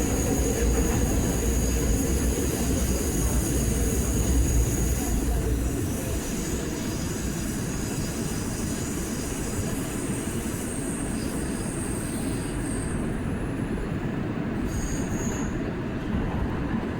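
New York City R179 subway car running between stations, heard from inside: a steady rumble of wheels on rail with a thin, high wheel squeal over the first five seconds and again briefly later on. The low rumble eases about six seconds in.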